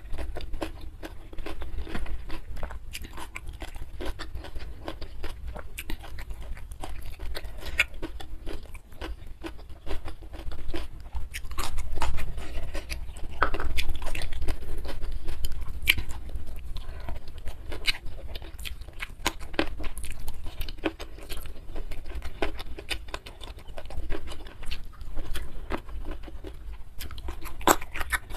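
Close-miked mouth sounds of a person eating soft, saucy chicken feet and rice by hand: wet chewing, lip smacks and several quick clicks a second, louder for a few seconds around the middle.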